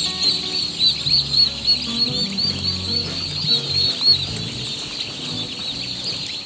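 A dense chorus of day-old turkey poults peeping, many short high chirps overlapping without pause, then cutting off suddenly at the end.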